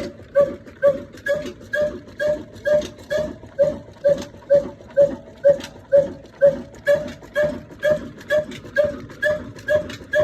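Old Pakistani-made 'black engine', a slow-running single-cylinder diesel, chugging steadily; its side-mounted silencer gives an even exhaust beat about twice a second.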